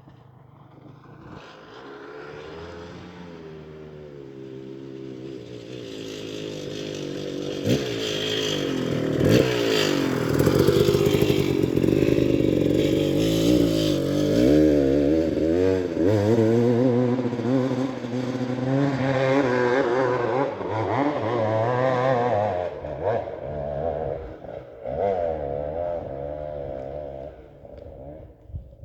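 Off-road motorcycle engine revving hard and unevenly, the pitch rising and falling again and again under throttle on a steep hill climb. It grows from faint to loud over the first several seconds and drops away near the end.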